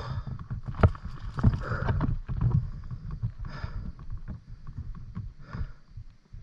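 Rustling and swishing of walking through tall grass and brush, with irregular knocks and thumps of handling on the microphone.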